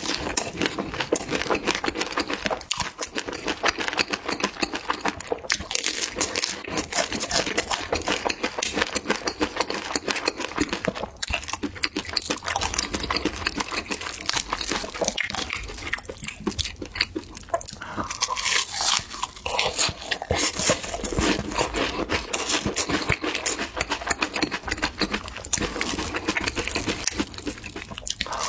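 Loud, wet chewing and smacking as cheese is eaten in quick mouthfuls, a dense run of small clicks with no pause.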